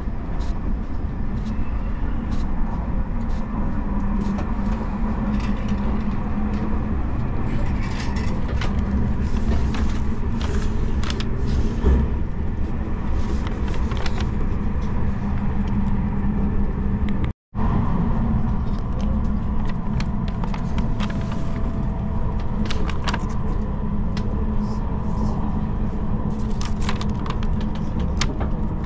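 Steady rumble of a Tobu Spacia X limited express train running, heard from inside the passenger cabin, with light scattered rattles and clicks. The sound drops out for a split second about two-thirds of the way through.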